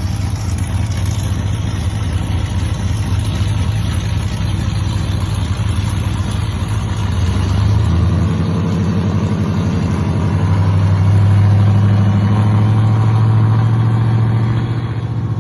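Pickup truck with a loud exhaust running, its engine note stepping up and getting louder about halfway through and again a few seconds later.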